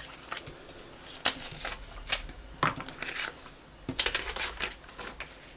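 Paper and sticker sheets being handled: scattered rustling and crinkling with a few light sharp taps.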